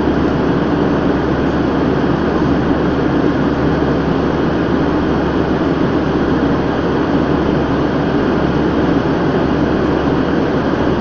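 Airplane in flight: a steady, unbroken drone of engines and rushing air, with a constant low hum underneath.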